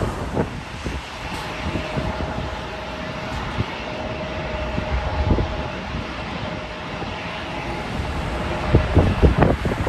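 Jet airliner engines running with a steady rushing noise and a thin, steady whine through the middle. Wind buffets the microphone near the end.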